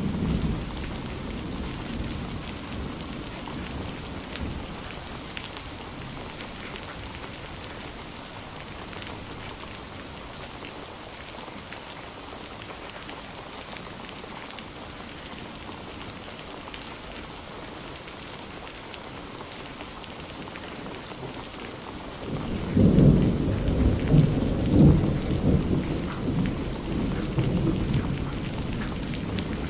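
Steady rain falling, with a thunder rumble dying away at the start and a loud roll of thunder breaking in suddenly about three-quarters of the way through and rumbling on to the end.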